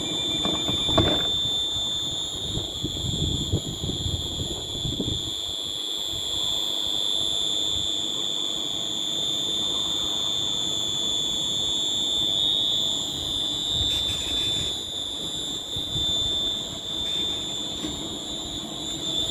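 Inside a train carriage: a steady high-pitched whine over a low, uneven rumble, with a couple of brief knocks.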